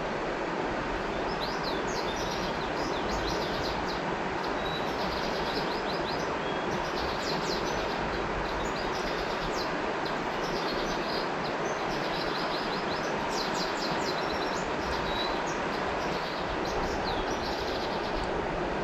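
Steady rushing of flowing river water, with songbirds giving quick runs of high chirps over it.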